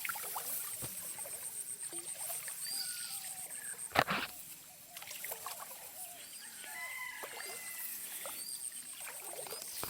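Outdoor rural ambience of birds chirping and calling, with a fast high-pitched pulsing in the background. A single loud sharp knock about four seconds in.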